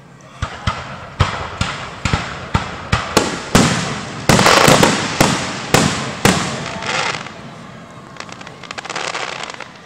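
Aerial fireworks shells bursting in quick succession, a dozen or more sharp bangs over about seven seconds, densest and loudest in the middle with crackling between them, then fading to a softer crackle near the end.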